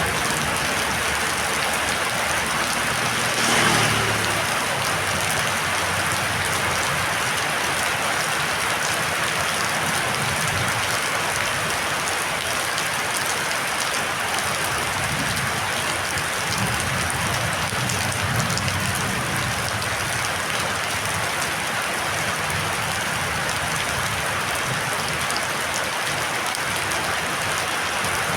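Storm rain falling steadily and heavily, a continuous even hiss, with a brief louder surge about three and a half seconds in.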